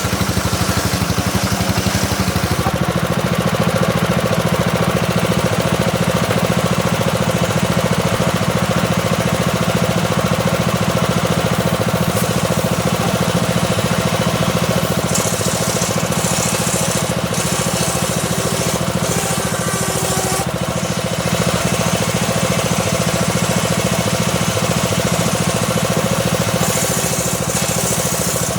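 Homemade circular saw rig running steadily with a fast low pulse from its drive motor as the blade slowly rips a small teak log. A higher hiss comes in about halfway through and again near the end.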